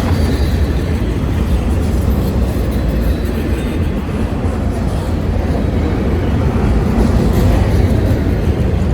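Freight cars of a long train rolling past, their wheels rumbling steadily on the rails, with faint high wheel squeal.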